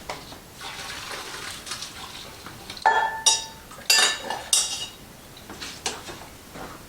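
Boiled potatoes being drained: a short rush of pouring water, then a metal pot clanking several times with a ringing tone as the potatoes are tipped back into the pan.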